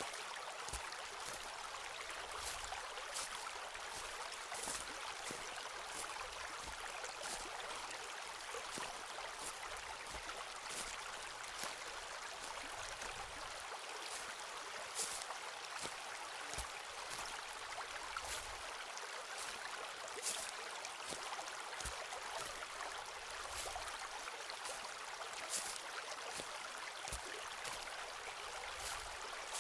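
Steady rush of a running stream, with slow footsteps on a forest path every second or two, each a soft low thud with a sharp crackle.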